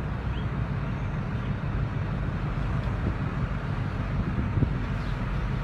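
Steady low rumbling background noise with a hiss above it and no distinct events.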